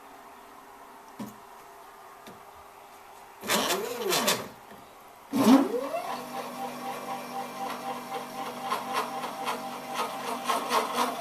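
Stepper motors of a hobby CNC machine driving a Sharpie: a short move about three and a half seconds in with the pitch sweeping up and back down, then a longer move from about five seconds in that rises to a steady whine.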